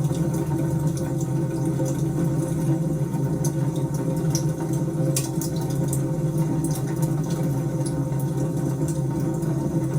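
Wood fire burning in a fireplace: a steady low rushing sound with scattered sharp crackles and pops.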